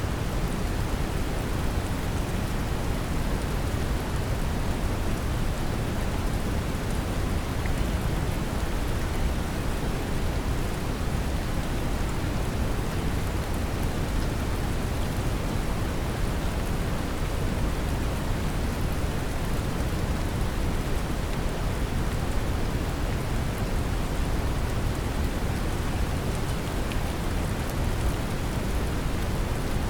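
Steady brown noise, deep and bass-heavy, blended with gentle rain, with faint scattered droplet ticks over the top.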